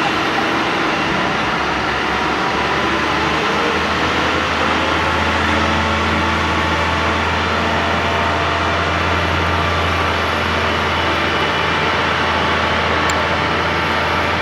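Airliner jet engines running steadily on the apron: an even roar with faint steady whines, and a low hum that grows stronger about four seconds in.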